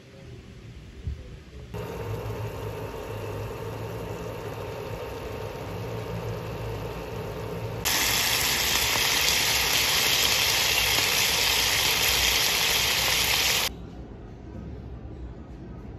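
Pork belly cubes sizzling in a frying pan: a loud, steady sizzle that starts about eight seconds in and cuts off about six seconds later. Before it there is a quieter steady hiss with a low hum.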